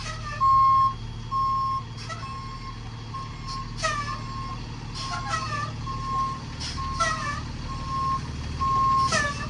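Box truck's reverse alarm beeping about once a second while the truck backs up, over the steady hum of its engine. Short high squeaks with falling pitch cut in a few times.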